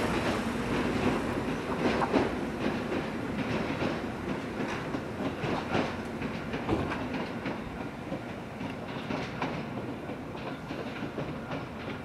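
Toyama Chihou Railway 20020-series electric train (ex-Seibu 10000 New Red Arrow) pulling away from a station: wheels clacking and knocking over the rail joints and points over a steady rumble, slowly fading as it recedes.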